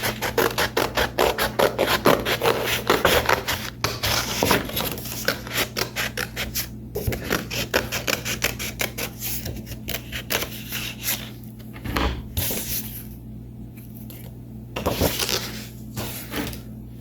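Scissors cutting paper: a quick run of rasping snips for the first six or seven seconds, then slower, scattered cuts.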